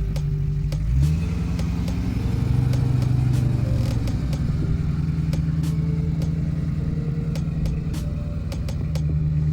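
Land Rover Discovery 2 engine running under load. The revs pick up about a second in and ease back after about four seconds. Scattered sharp clicks and knocks sound over it.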